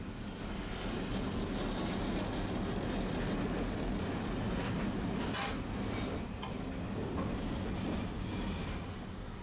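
Tosaden streetcar running on its rails: a steady wheel-on-rail rumble with scattered clicks and a brief wheel squeal about five and a half seconds in. It swells about a second in and eases off near the end.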